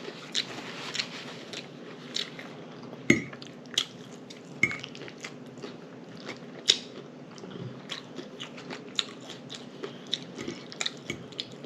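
Close-miked chewing and lip smacking of a person eating, with many irregular wet clicks and a few sharper crunchy bites.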